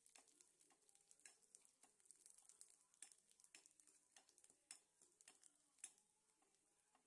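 Faint, scattered crackling and popping of kondattam deep-frying in hot oil.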